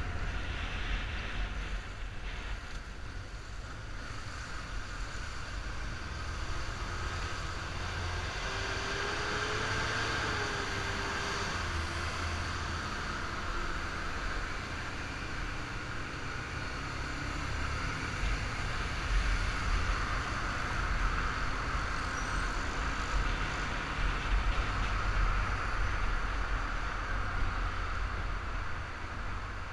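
Yamaha Fazer 250 single-cylinder engine running while the motorcycle is ridden, under a steady low rumble of wind and road noise.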